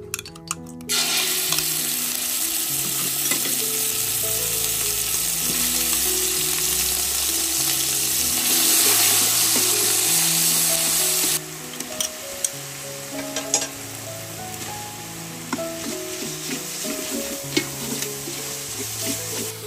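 Spice paste frying in hot oil in a large aluminium pot: a loud sizzle starts suddenly about a second in and drops off sharply about eleven seconds in. After that, quieter sizzling continues, with a metal ladle stirring and clinking against the pot.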